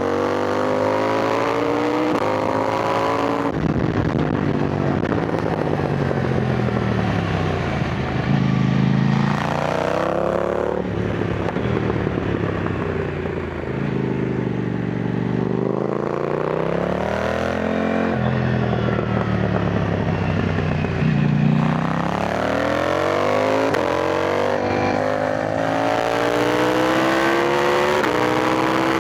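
KTM Duke 990 motorcycle engine accelerating up through the gears, its pitch climbing and dropping back at each upshift. Around the middle it rolls off and slows, then climbs through the gears again toward the end.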